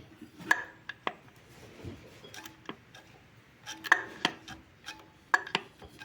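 Irregular metallic clinks and knocks, about a dozen, some with a short ring: metal tools and parts handled on the engine.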